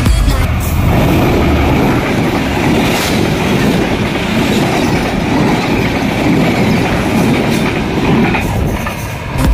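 Passenger train running past on the rails, its wheels clattering over the track in a steady, loud rattle.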